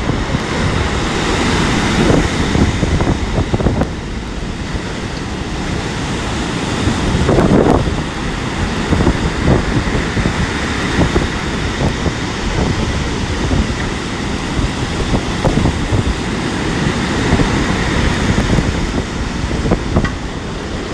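Strong gusty wind buffeting the microphone over the steady rush of heavy storm surf breaking on the shore.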